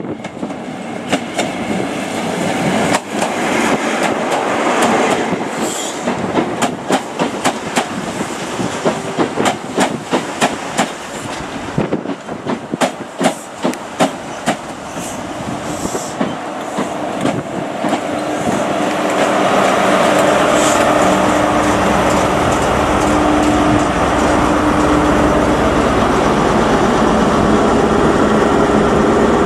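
GWR Class 43 HST rolling past close by: the coaches' wheels click over the rail joints for the first half. From about 18 s the rear diesel power car comes alongside, and its engine's steady hum takes over and is louder.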